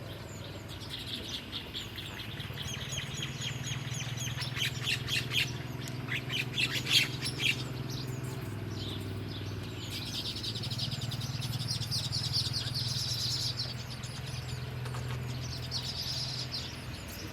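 Small birds chirping, with a quick run of rapid chirps in the middle followed by a long high trill. A steady low hum runs underneath.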